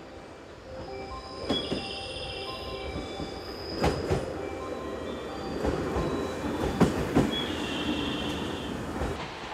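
JR limited express electric train pulling into a station platform: a steady rumble with sharp knocks from the wheels over the rail joints. Twice a high squeal lasts about a second, typical of wheels and brakes as the train slows.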